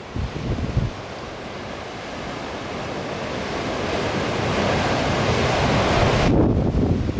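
Rough sea surf rushing and swelling steadily louder for several seconds, then breaking off suddenly near the end. Strong wind buffets the microphone at the start and again at the end.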